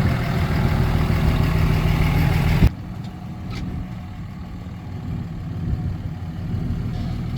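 Pickup truck engine running at low speed while towing a fifth-wheel trailer into a tight spot. Its sound drops off abruptly a little under three seconds in and carries on more quietly.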